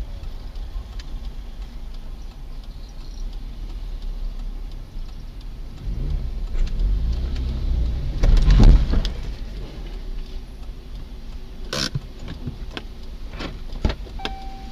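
Car engine and road noise from inside the cabin, swelling louder with a rise and fall in pitch about six to nine seconds in as the car pulls away, with a couple of sharp clicks near the end.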